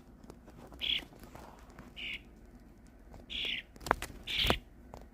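A young rescued bird, about three weeks old, giving four short rasping calls roughly once a second, with two sharp clicks in the second half.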